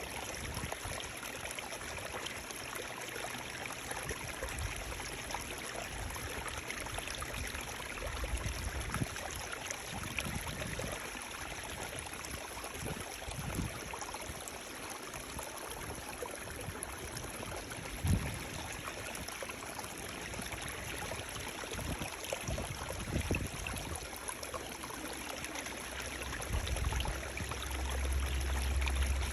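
A stream of running water, a steady rushing and trickling. A few short low thumps break through, one clearly louder about two-thirds of the way in, and a low rumble grows near the end.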